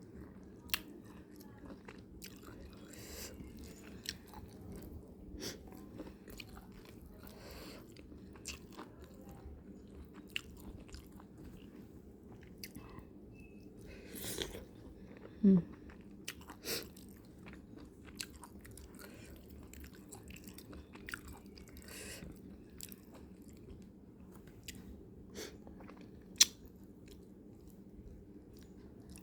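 A person chewing fried fish close to the microphone, with soft mouth clicks and smacks and a few louder ones now and then.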